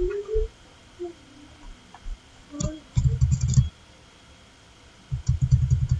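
Typing on a computer keyboard: a few single key clicks, then two quick bursts of rapid keystrokes, about three seconds in and again about five seconds in.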